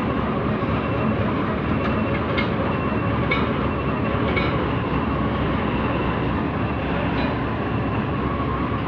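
Heavy diesel engine running steadily at a constant speed, with a few faint metallic clicks over it.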